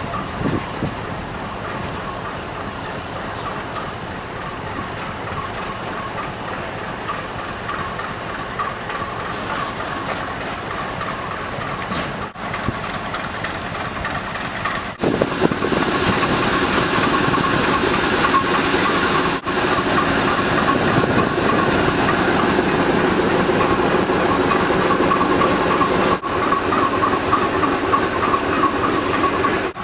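Standing steam locomotive hissing steadily as it vents steam, louder and brighter over the second half.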